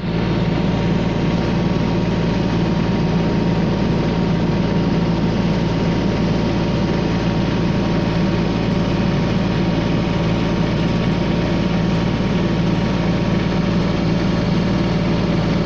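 An engine idling steadily, a constant low hum that does not change in speed.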